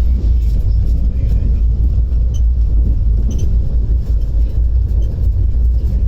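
Passenger train running, a steady heavy low rumble heard from on board the moving coach, with a few faint ticks.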